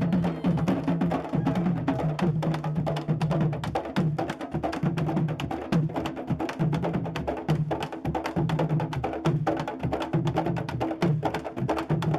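Candombe drum ensemble playing: hand-and-stick strokes on the tambores in a dense, steady rhythm, with sharp wooden clicks of sticks on the drum shells and deep pitched drum tones repeating underneath.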